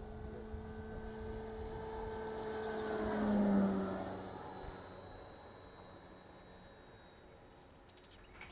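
Electric motor and propeller of a Seagull Models Spacewalker 2 RC model plane humming as it flies past. The sound grows louder to a peak about three and a half seconds in, then falls slightly in pitch and fades away.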